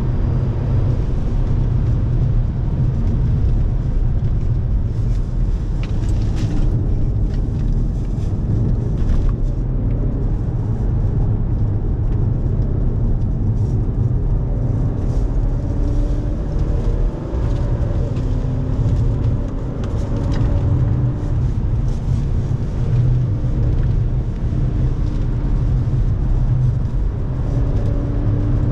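Audi sedan's engine and tyre noise heard from inside the cabin at track speed: a steady low rumble, with the engine note gliding up and down through the second half.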